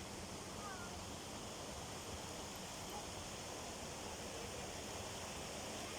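Steady rushing of a flowing hot-spring river, an even wash of water noise.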